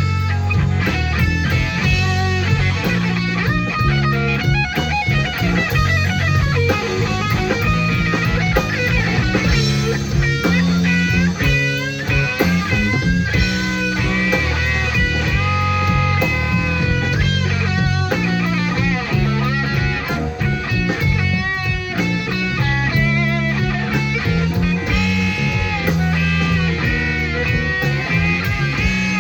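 Live electric blues band playing a slow blues instrumental passage: a lead electric guitar solo with bent and sliding notes over bass and drums.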